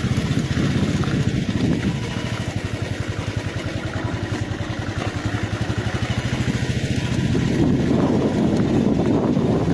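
Vehicle engine running steadily with an even, fast pulsing while driving on a rough dirt road, getting a little louder near the end.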